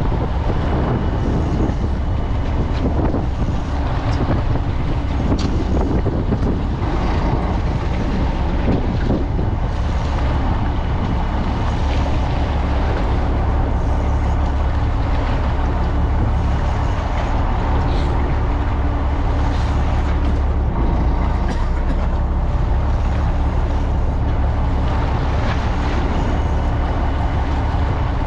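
Fishing boat's engine running steadily with a deep, even hum, mixed with wind and water noise.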